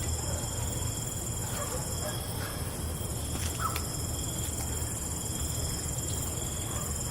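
Night ambience of crickets: a steady, high-pitched insect chorus over a low rumble, with a few faint clicks and a brief short chirp about three and a half seconds in.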